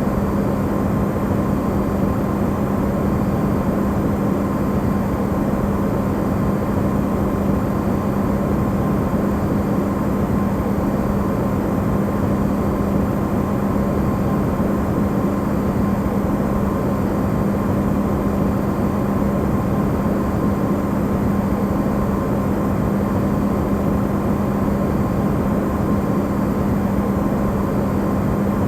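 Electrolux refrigerator running, recorded amplified: a steady hum with a strong low tone and a fainter higher tone over an even rushing noise, unchanging throughout.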